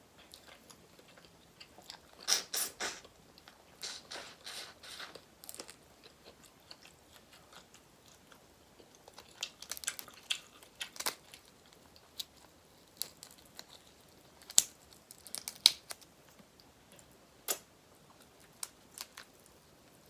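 Close-up eating of boiled seafood: chewing and crunching in irregular bursts, with a few sharp single cracks of shell at intervals.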